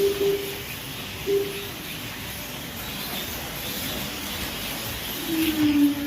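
HO-scale slot cars running on the track, a steady whirring hiss. Two short low hum-like tones come in the first two seconds, and a longer one falls in pitch near the end.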